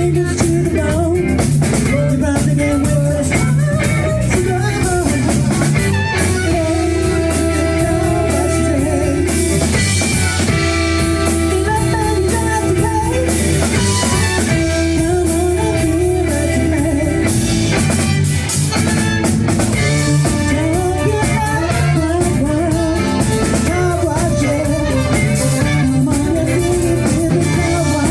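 Live band playing a funk-disco cover song, with singing, electric guitar, bass and drum kit.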